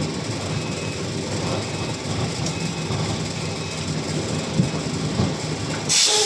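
Truck engine running at low speed while the truck is parked, with a faint beep repeating about once a second. Near the end comes a loud burst of air hiss from the air brakes as the truck is set in park.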